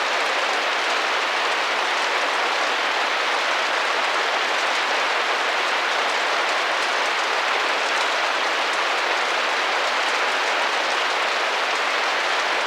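Steady rain falling against a window pane: an even hiss with faint scattered drop ticks.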